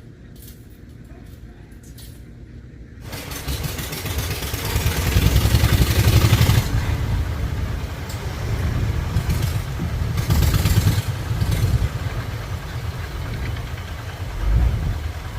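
An engine starts up loudly about three seconds in and runs with a fast low throb, rising and falling in loudness, then cuts off abruptly at the end.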